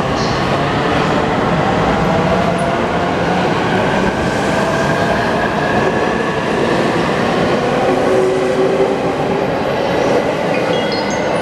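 E259 series Narita Express electric train pulling out of the station, with loud, steady running noise from its wheels and motors.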